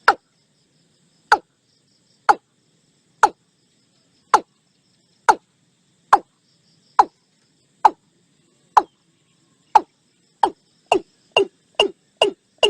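Watercock calling: a series of short, hollow notes that each drop in pitch, about one a second, quickening to two or three a second near the end.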